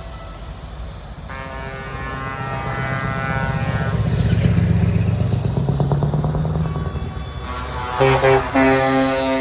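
Heavy trucks driving past, their diesel engines swelling loud in the middle and a horn tone sounding over them. Near the end an air horn gives two short blasts and then a long one.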